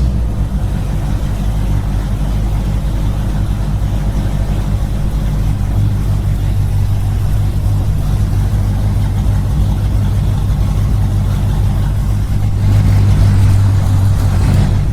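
Small engine running steadily with a low, even drone, getting a little louder near the end.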